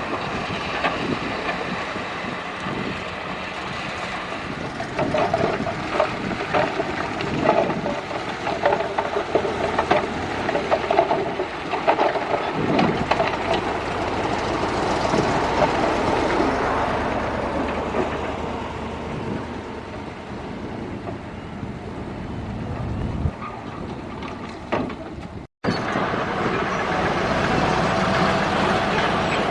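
Crawler bulldozer at work: a diesel engine runs under load while its steel tracks clank and knock repeatedly. The sound drops out for an instant near the end and then picks up again.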